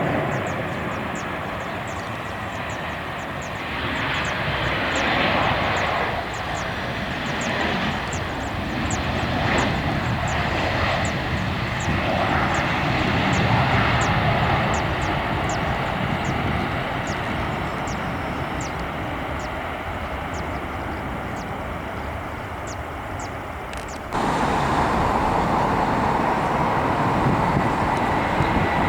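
Airliner engines running as a plane passes, the noise swelling and easing. About three-quarters of the way through it cuts suddenly to another aircraft's louder engine noise.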